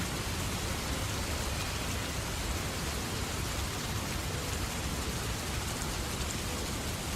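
Heavy rain falling steadily: an even hiss with a constant low rumble underneath.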